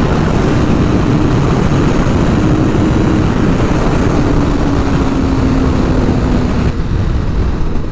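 Sport bike on the move, heavy wind rush on the microphone over the engine. The engine note falls slowly as the throttle eases off, and the wind noise drops away a little over a second before the end.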